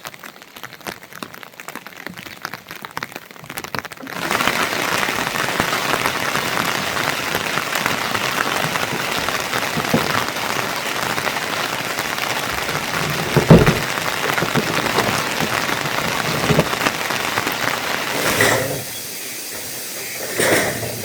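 Rain falling: a light patter of drops at first, then heavy, steady rain from about four seconds in, with one dull thump in the middle. Near the end it drops to a thinner hiss.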